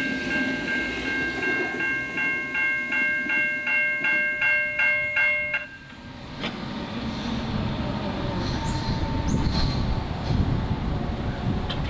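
Level-crossing electronic bells (Safetran Type 3 e-bells) ringing in rapid strokes, about four a second, then cutting off suddenly about six seconds in. A low rumbling noise follows and builds toward the end.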